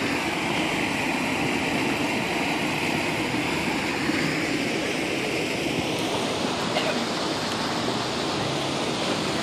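Steady rushing noise of flowing river water, an even hiss with no breaks.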